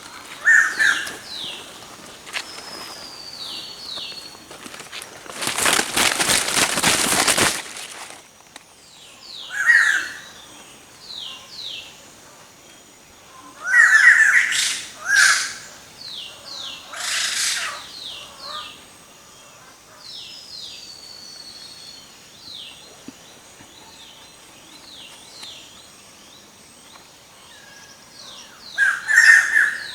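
Wild birds calling in the forest: many short falling chirps, a couple of longer falling whistles and several louder, harsher calls. A burst of rustling noise lasts about two seconds, some six seconds in.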